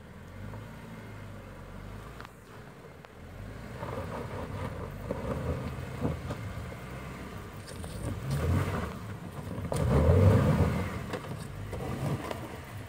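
Jeep Wrangler Unlimited's engine working under load as it crawls up a rocky slope, with two surges of throttle about eight and ten seconds in, the second the loudest.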